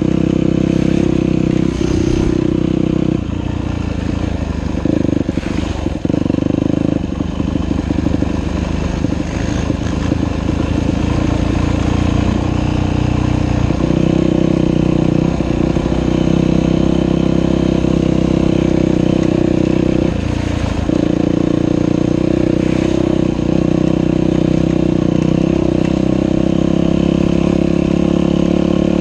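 Dirt bike engine running under load on a trail, its revs rising and falling with the throttle. It sounds lower and choppier a few seconds in, steadier and higher from about halfway, with a brief drop in revs a few seconds later.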